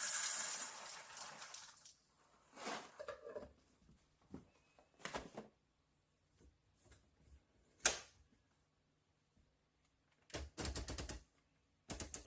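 An electric conical burr coffee grinder's grinding hiss dies away in the first two seconds. It is followed by a series of sharp clicks and knocks, with a quick cluster of taps near the end, as parts of the grinder are handled.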